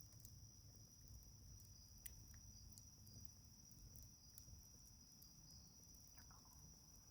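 Faint, steady high-pitched trilling of night insects such as crickets, with scattered small crackles and pops from a wood fire. A short falling call is heard about six seconds in.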